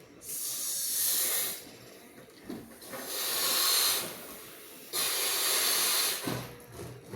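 Air being blown into a rubber balloon to inflate it: three long gusts of airy hiss, each about a second or more, with short pauses between.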